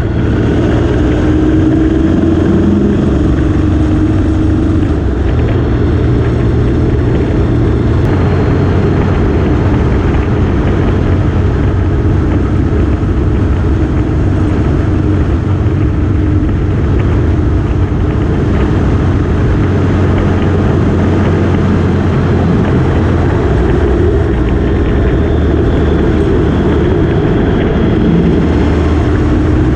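Motorcycle engine running steadily at road speed under a wide rushing noise, its note drifting slightly up and down.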